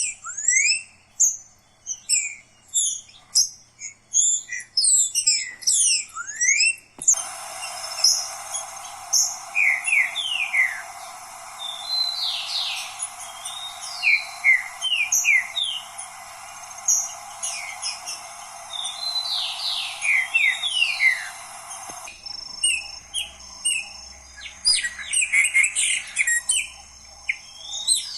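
Songbirds singing: a dense run of quick chirps and sharp downward-sliding whistles. A steady hiss behind the birds comes in abruptly about seven seconds in and changes again near the end, like separate recordings joined.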